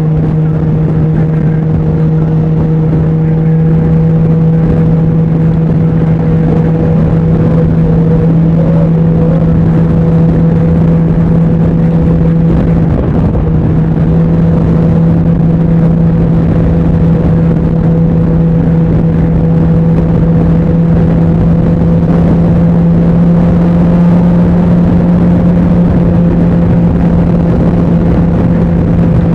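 Can-Am Ryker three-wheeler's engine running at a steady cruise, a loud even drone that holds one pitch, over a steady rushing noise.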